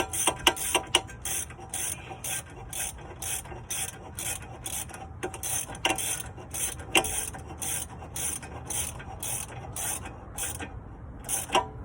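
Hand ratchet wrench clicking in quick, repeated back-and-forth strokes, about two a second, working a nut or bolt during a shock absorber job. The strokes stop shortly before the end, with one last click near the end.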